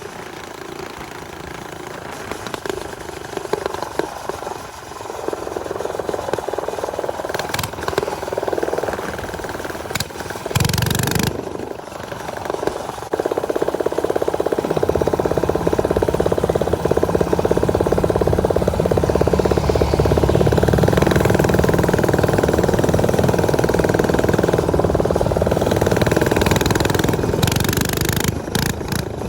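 Small off-road motorcycle engines running during a ride: uneven and quieter at first, then louder and steady from about halfway through as the bikes pull along.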